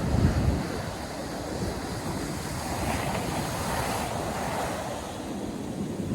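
North Sea surf breaking and washing on the beach, with wind buffeting the microphone, heaviest in the first half second. A wave's wash swells in about three seconds in and eases off again.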